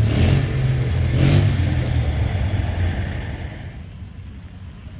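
Old Dodge truck's 383 big-block V8 running with a deep low rumble, revving briefly near the start and again about a second in, then dying away about three seconds in.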